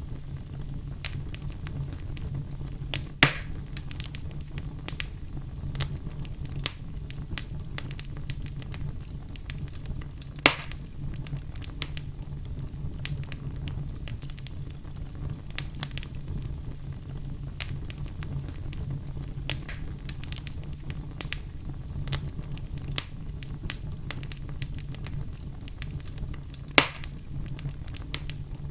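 Wood fire burning in a fireplace, crackling steadily with a low rumble, with three louder pops about 3, 10 and 27 seconds in.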